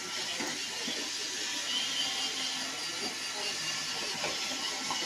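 iRobot Roomba 760 robot vacuum running: a steady whirring hiss from its suction motor and brushes, with a thin steady tone on top.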